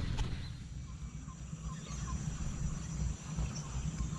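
Faint bird chirps, a short quick series about a second and a half in, over a low rumble of wind on the microphone.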